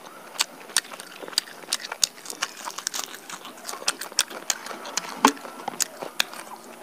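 Close-miked chewing of roasted chicken: an irregular run of short wet clicks and smacks, several a second, with one louder smack about five seconds in.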